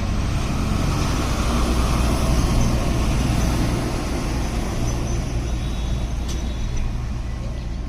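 Truck engine running steadily with road and traffic noise, a low even hum under a wide rumble.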